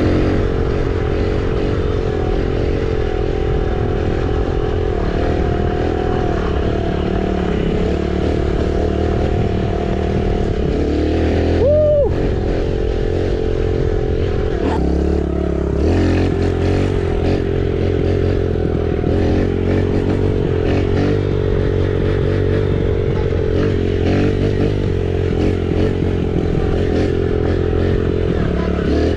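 Kawasaki KLX110's small single-cylinder four-stroke engine running steadily. A short tone rises and falls about twelve seconds in, and the engine note shifts a few seconds later.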